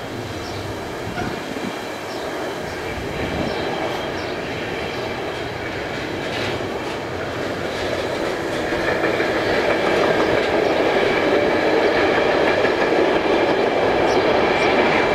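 Container freight train's flat wagons rolling past: a steady rumble of steel wheels on rail with faint clicks over the rail joints, getting louder about two thirds of the way through.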